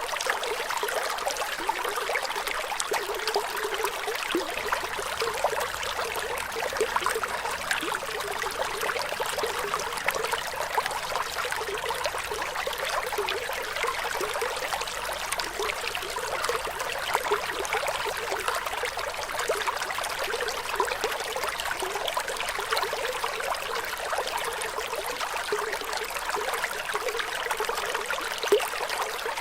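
Flowing water trickling steadily, a continuous light splashing with little low rumble.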